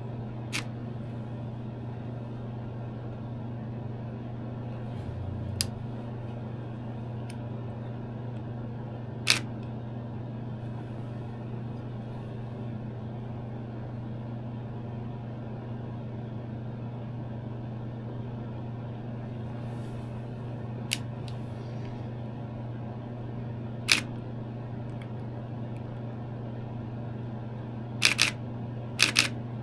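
Nikon D7000 DSLR shutter clicking, single shots every few seconds with two quick pairs near the end, over a steady low hum.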